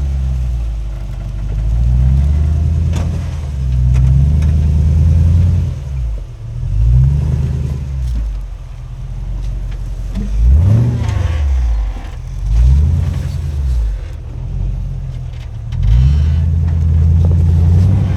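An off-road rock crawler's engine revving up and down in repeated surges, its pitch rising and falling every couple of seconds as the driver works the throttle over rocks.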